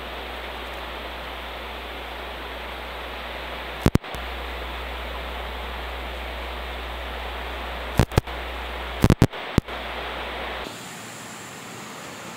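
Heavy rain falling in a steady, dense hiss. A few sharp knocks cut in about four seconds in and again around eight to nine and a half seconds, and near the end the rain sound turns thinner and quieter.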